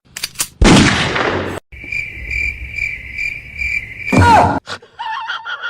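Cricket-like chirping: a steady high trill pulsing about twice a second for a couple of seconds. A loud rushing noise comes before it, and a short loud burst with a falling pitch follows it.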